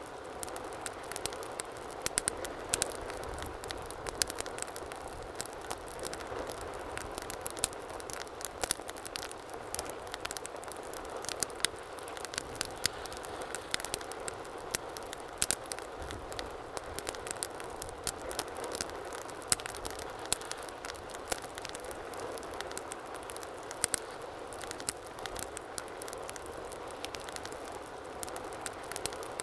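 Wood fire crackling in a fireplace: a steady low rush of flame with frequent sharp pops and snaps at irregular intervals.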